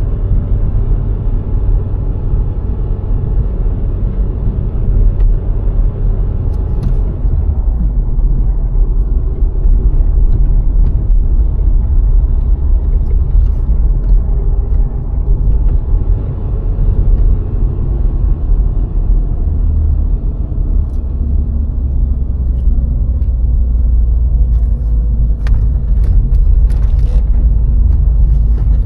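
A VW Golf IV 1.6 driving along the road: a steady low rumble of engine and road noise. A few sharp clicks come near the end.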